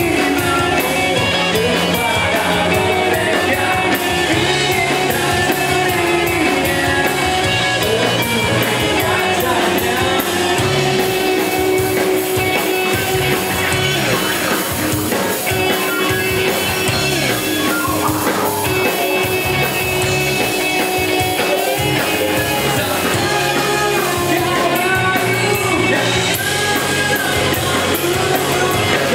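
Rock band playing a song, with a lead singer over guitars and drums.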